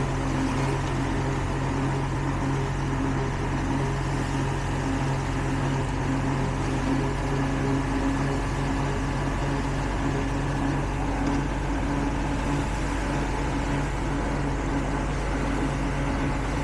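Diesel engine of heavy concrete-road construction machinery running steadily with a constant low hum, the lowest part of the hum weakening about halfway through.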